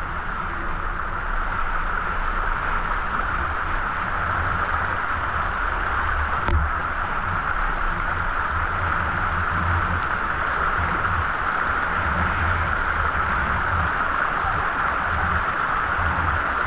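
Steady rushing of a waterfall pouring into its pool, with an uneven low rumble underneath.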